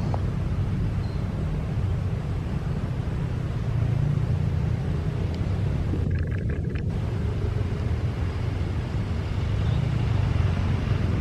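Steady low engine rumble, with the higher hiss dropping out briefly about six seconds in.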